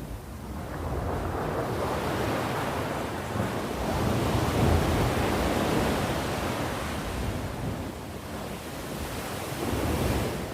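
Sea waves breaking and washing on the shore, a steady surf hiss that swells to a peak about halfway through, eases, then swells again near the end.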